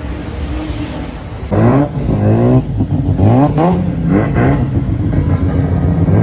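Racing car engine accelerating hard, its pitch climbing and dropping back several times as it shifts up through the gears, loud from about a second and a half in.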